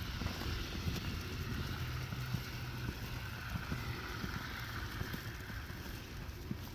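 Wind buffeting the microphone: a steady low rumble with light crackle and a faint hiss that swells slightly midway.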